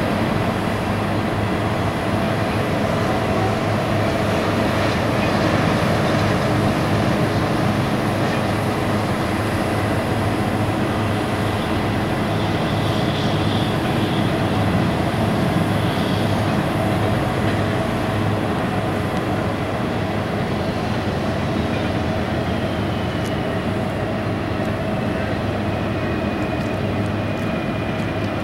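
Freight train of intermodal container cars rolling across a railroad overpass: a steady, continuous noise of wheels on the rails.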